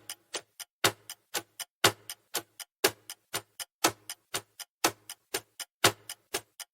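Countdown timer sound effect: clock-style ticking, a louder tick about once a second with quieter ticks between.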